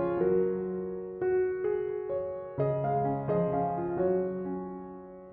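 Background piano music: soft chords struck one after another, each ringing out and fading before the next, the last one dying away near the end.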